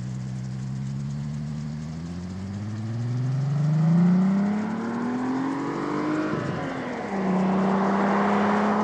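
VW Jetta's 12-valve VR6 engine through a Borla non-resonated catback exhaust, accelerating with its pitch climbing steadily for about six seconds. The pitch then drops sharply and holds steady and louder.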